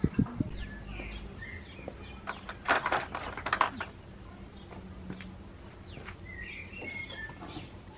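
Small birds chirping, with a knock right at the start and a cluster of sharp clicks about three seconds in.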